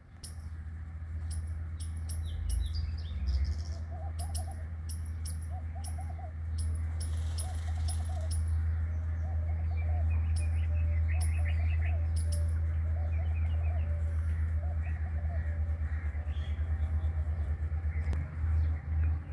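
Several birds chirping and calling, one of them repeating a short call about once a second through the middle, over a steady low rumble.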